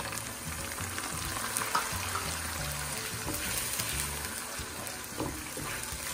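Garlic and oyster sauce sizzling in hot oil in a nonstick frying pan while a wooden spatula stirs and scrapes through it, with small scraping ticks over the steady sizzle.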